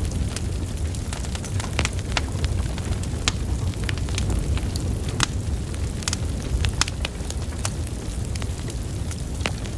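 Wood fire burning: a steady low rumble of flames with frequent sharp crackles and pops of burning logs, irregular, several a second.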